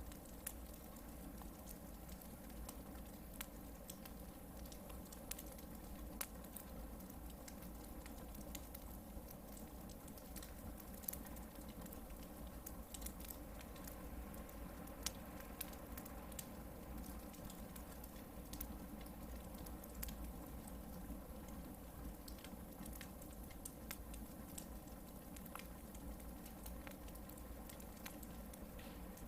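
Campfire of hardwood logs burning, giving irregular small crackles and pops over a low, steady background.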